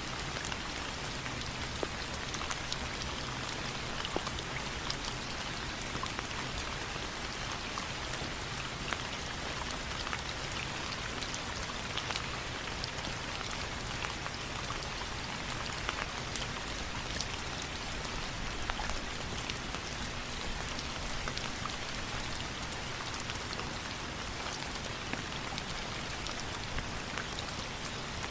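Steady rain falling, with frequent small sharp ticks of drops scattered through it.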